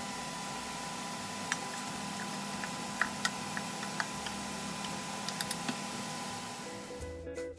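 Steady sizzling hiss of eggplant deep-frying in oil, with scattered small pops and ticks; the hiss fades out near the end.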